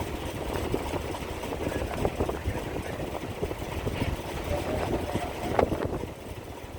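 Ship's engines running with a steady low rumble, joined by scattered knocks and clatter.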